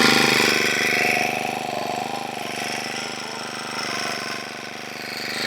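Engine-powered post driver hammering a fence post into the ground with a fast, steady run of blows. It grows quieter in the middle and louder again near the end.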